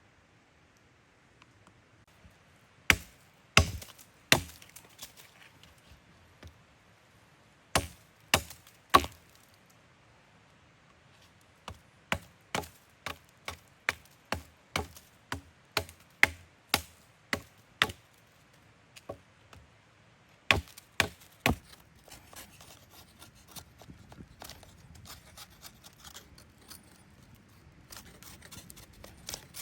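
Chopping with a blade: sharp strikes, first in clusters of three, then a run of about a dozen evenly spaced strikes at roughly two a second, then two more. Softer rustling and scraping follow near the end.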